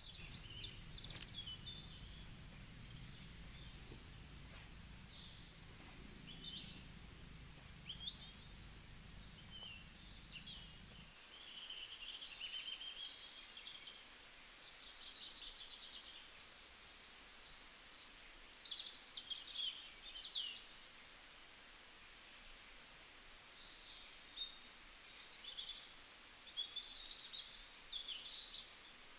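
Small birds chirping and calling, many short high chirps and trills scattered throughout. A low rumble underneath stops suddenly about a third of the way in.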